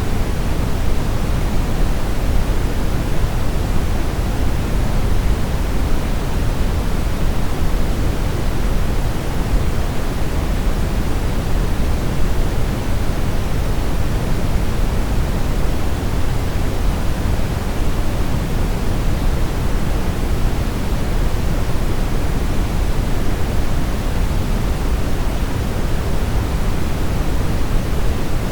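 Brown noise: a steady, deep hiss, heaviest in the bass and thinning toward the treble, with no change.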